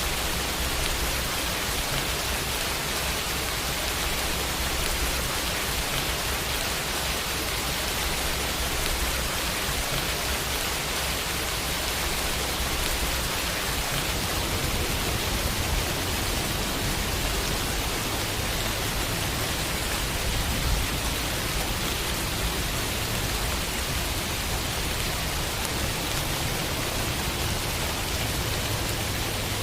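Steady rainfall on a window, an even hiss of drops with a low rumble underneath.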